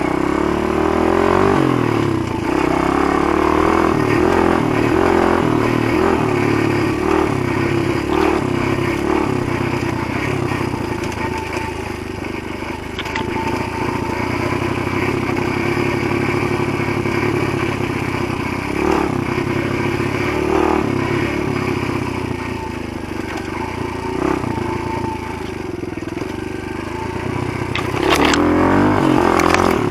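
Motoland GF125 pit bike's single-cylinder four-stroke engine running while being ridden, its revs rising and falling again and again, with some clatter from the bike. It gets louder near the end.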